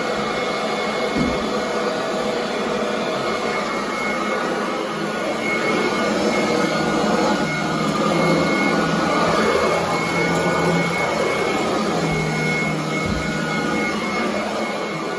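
Royal commercial upright vacuum cleaner running on carpet, a steady motor drone with a thin high whine; a lower hum comes in and the sound grows a little louder for a few seconds in the middle and again near the end as it is worked over the carpet.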